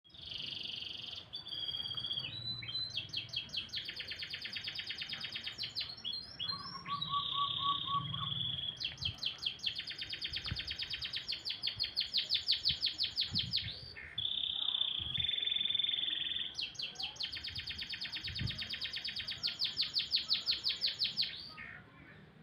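Domestic canary singing a long, continuous song: fast rattling trills alternate with held whistled notes and a brief low rolling phrase. The song breaks off shortly before the end.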